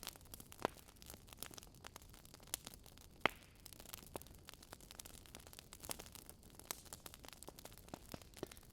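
Wood fire crackling in a fireplace: irregular small pops and snaps over a faint hiss, with a sharper pop about half a second in and another near three seconds in.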